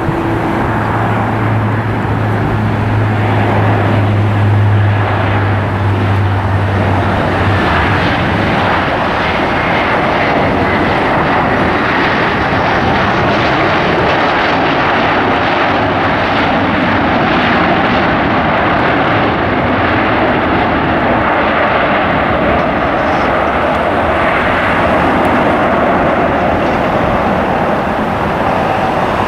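Aircraft engines running loud and steady. A low hum underneath stops about seven seconds in.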